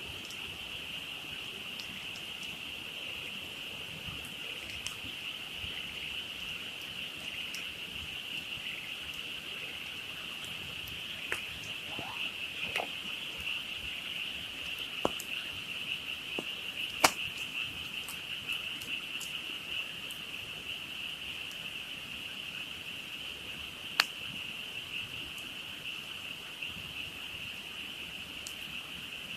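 A dense frog chorus, a steady high-pitched chorus that never lets up, with a wood campfire crackling and giving a few sharp pops, the loudest two about halfway and two-thirds through.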